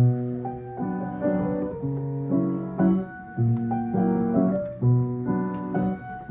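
Piano playing a slow passage of chords, each new chord struck over a low bass note and left to ring.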